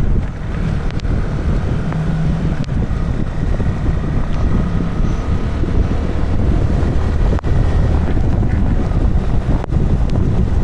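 Wind buffeting the microphone on a moving motorcycle, a heavy low rush with the engine running steadily underneath.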